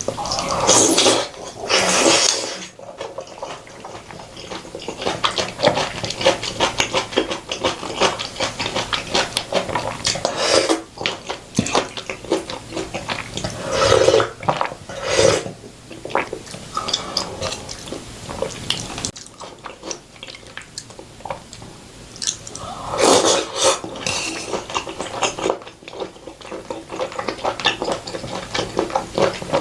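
Close-miked eating sounds: steady wet chewing and crunching of food, with a few louder slurps about a second in, near two seconds, around fourteen to fifteen seconds and around twenty-three seconds.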